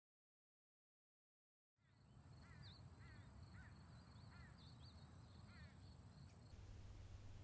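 Dead silence, then from about two seconds in faint outdoor street ambience: a bird gives a series of short chirps over a low rumble, with a steady high-pitched whine that stops near the end.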